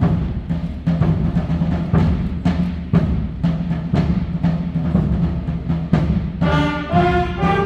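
Student concert band playing: steady drum and timpani strikes about two a second over a held low note, with the winds and brass coming in on a chord about six and a half seconds in.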